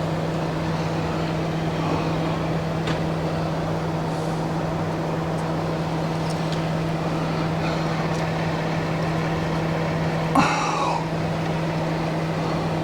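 Steady low mechanical hum, with a single sharp knock about ten seconds in.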